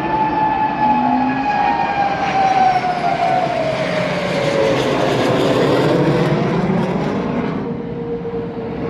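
Jet aircraft flying past, the whine of its engines falling slowly in pitch as it passes, over a steady rushing noise.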